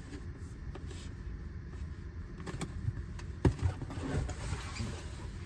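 A cardboard box and its packaging being opened and handled: rustling with scattered knocks and clicks, the loudest knock about three and a half seconds in, over a steady low rumble.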